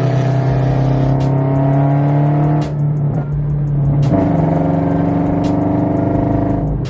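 Scion FR-S flat-four boxer engine through a straight-piped exhaust with an unequal-length header, running loud and steady with a slightly sagging pitch. The sound drops away briefly partway through, then comes back.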